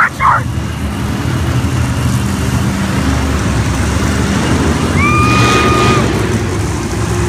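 Monster truck engines running at a low, steady idle. A steady high tone sounds for about a second, about five seconds in.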